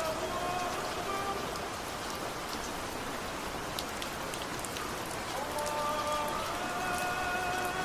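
Crackling fireplace: a steady soft hiss with scattered small pops and crackles.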